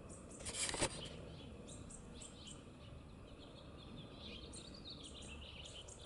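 Birds chirping faintly in the background, with a short burst of noise about half a second in.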